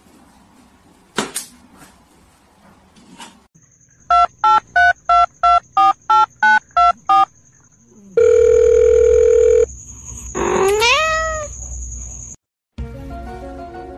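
A run of about ten short electronic beeps, about three a second, then one long steady beep, then a cat meowing with a rising pitch. The sound cuts out briefly and music starts near the end.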